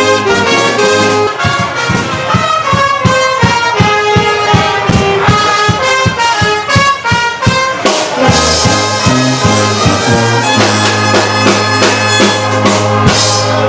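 Brass band playing festive music, trumpets and trombones over a steady beat. About two-thirds of the way through, the beat thins out and the band holds long, low notes.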